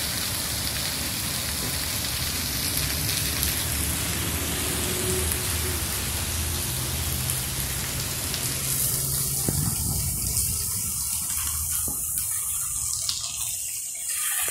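Heavy rain pouring down as a steady hiss, with a low steady hum underneath. About ten seconds in the rain sound thins out and becomes fainter.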